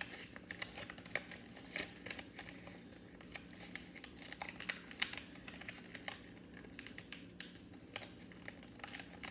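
Sheet of paper being folded and creased by hand: irregular crinkles and crackles of handled paper, with short scratchy rustles as folds are pressed down.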